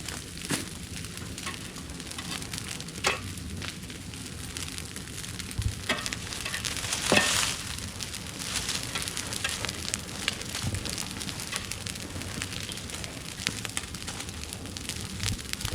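Burning dry bush and cut vegetation crackling: irregular sharp pops and snaps over a steady hiss, the loudest pop about seven seconds in.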